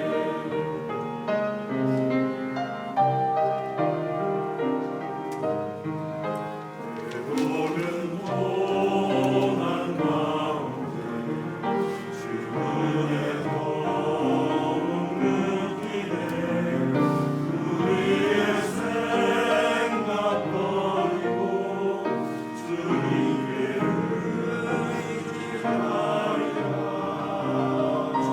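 A choir singing a hymn in several parts with accompaniment.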